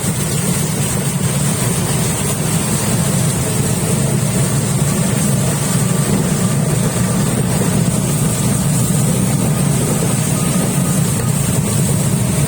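Heavy rain falling: a loud, steady, even hiss with a strong low rumble underneath.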